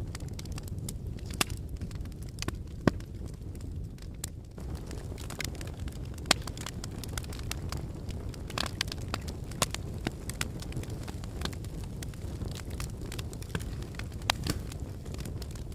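Wood fire burning in a fireplace: a steady low rush of flame with irregular sharp crackles and pops from the logs, a few of them much louder than the rest.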